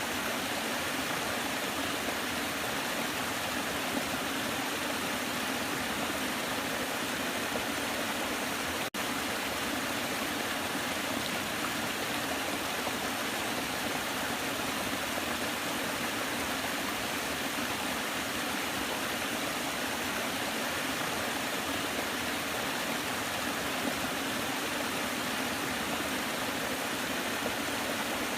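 Waterfall rushing steadily, a continuous even roar of falling water. There is a momentary break in the sound about nine seconds in.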